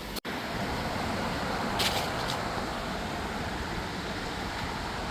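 Steady road traffic noise from cars passing on the avenue below, a continuous hiss, with a brief dropout in the sound just after the start.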